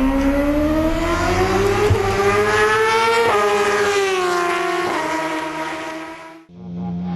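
Racing motorcycle engine at high revs, its note climbing steadily for about three seconds, then dropping sharply and falling away until it fades out near the end.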